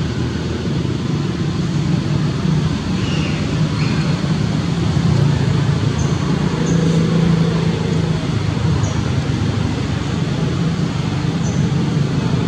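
A steady low motor hum, with a few short, faint high chirps scattered through it.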